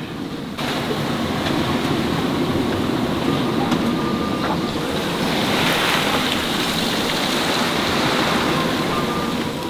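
Steady rush of wind and sea around a sailing yacht under way in strong wind, with wind buffeting the microphone.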